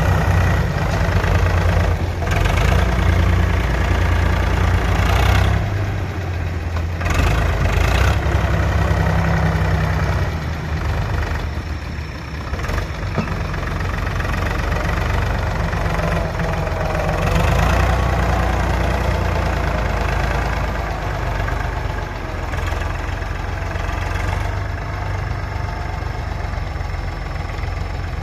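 JCB 3DX Super backhoe loader's diesel engine running, its revs rising and falling as it works, with a few short knocks.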